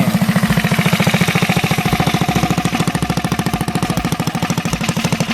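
Small mini-bike engine running with an even, rapid putter, on its newly fitted PZ19 round-slide carburetor.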